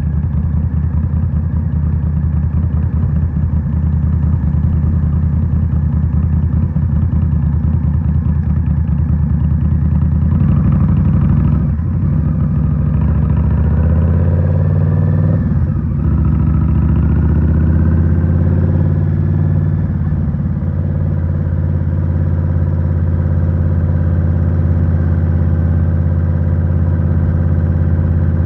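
2023 Indian Scout Rogue's 69 cubic-inch liquid-cooled V-twin running through a Rinehart slip-on exhaust. It holds a steady note, then about halfway the pitch climbs, drops suddenly at a gear change, climbs again and settles back to a steady cruise.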